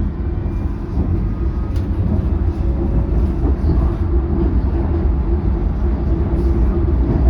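Passenger train carriage in motion, heard from inside: a loud, steady deep rumble with a constant hum above it, as the car shakes and makes odd noises.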